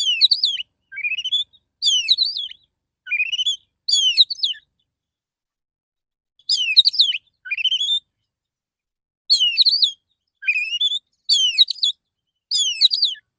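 Male Oriental magpie-robin (kacer) singing a relaxed song: about a dozen short whistled phrases of rising sweeps and quick higher notes, coming in groups with brief pauses between them.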